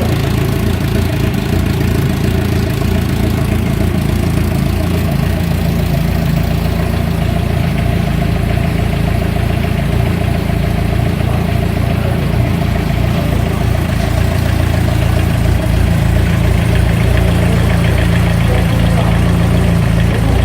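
Lotus Esprit's newly built engine idling steadily, just after its first start, with strong exhaust pressure and a loud note through the still-original muffler. The engine gets a little louder about two thirds of the way in.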